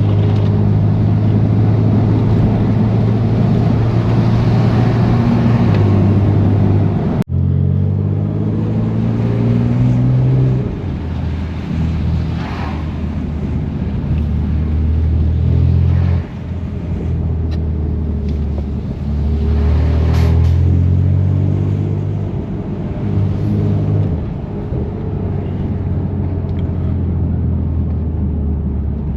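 BMW M3 Competition's twin-turbo straight-six running through a catless-downpipe exhaust with the valves open. Its low note climbs and falls back several times as the car pulls away and shifts through the gears, with a brief break about seven seconds in.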